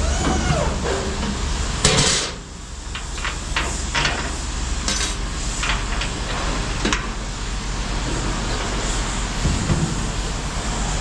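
Metal clanking and knocking over an idling vehicle engine, with one loud bang about two seconds in and several lighter clanks after it, as a piece of equipment is lowered.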